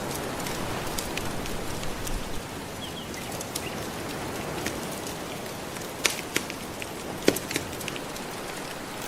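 Wood fire crackling, with a few sharp, louder pops in the second half, over a steady wash of gentle ocean waves.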